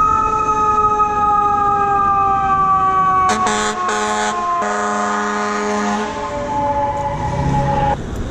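Fire truck siren with a slowly falling wail that cuts off suddenly near the end, under two long blasts of the truck's air horn starting about three and five seconds in.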